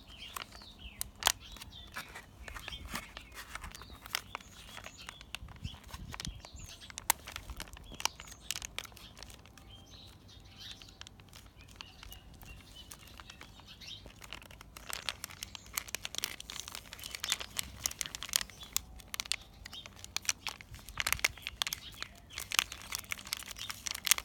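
Slime being squeezed out of its plastic packet and pushed into a plastic toy container: irregular wet squelching clicks and crinkling of the packet, busier in the second half.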